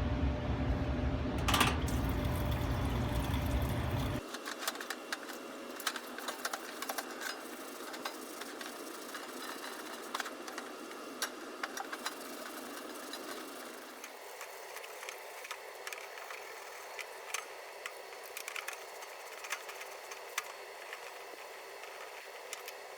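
Parts washer pump running with a steady hum, which cuts off about four seconds in. After that come quieter scrubbing and scattered light clicks as the pulleys are cleaned in the solvent.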